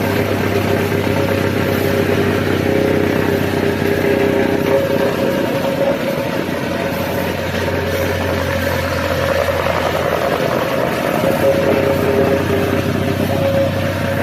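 A motor-driven machine's engine running steadily at a constant speed, with a low hum and a steady higher drone; the low hum weakens about halfway through.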